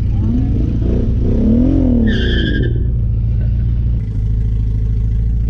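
Porsche 944's straight-piped four-cylinder engine running loud under way, its pitch rising and then falling between about one and two and a half seconds in. A brief high-pitched squeal comes just after two seconds, and the level dips briefly about four seconds in.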